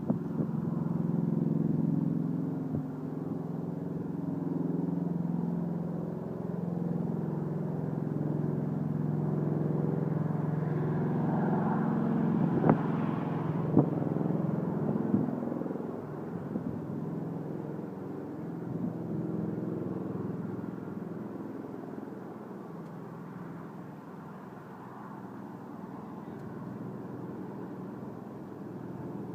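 Helicopter flying over, a low, steady drone of rotor and turbine that swells towards the middle and fades away over the last ten seconds, with a few sharp clicks near the middle.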